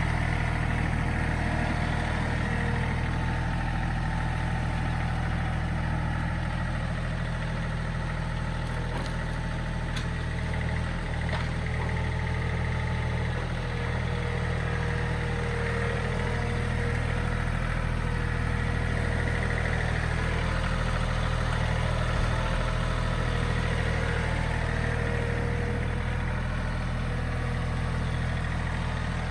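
John Deere 3032E compact tractor's three-cylinder diesel engine running steadily at a low, even speed.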